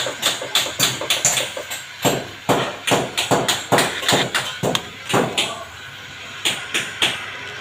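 Hammer tapping repeatedly on an air-conditioner copper pipe joint, a few sharp strikes a second, with a pause of about a second just past the middle.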